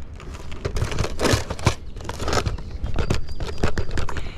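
Close handling noise: irregular crinkling and scraping with many light clicks and taps, as material is handled on a shingled roof.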